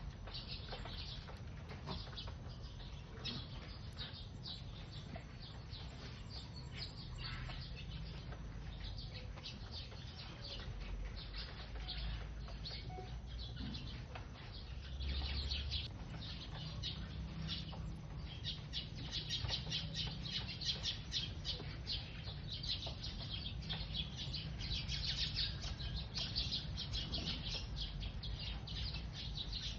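A flock of sparrows chirping busily while feeding: many short, overlapping chirps that grow denser and louder about halfway through, over a low rumble.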